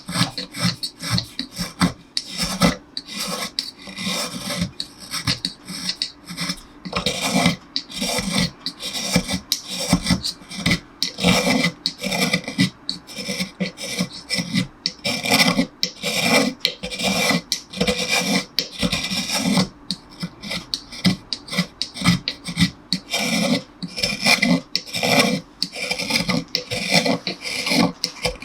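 Hand tool rasping and shaving the wood of a cello neck, in repeated scraping strokes about two a second, as the thick neck is brought down to size.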